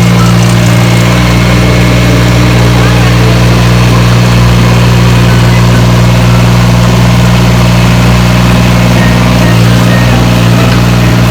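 Engine idling steadily and loudly, with an even, unchanging note.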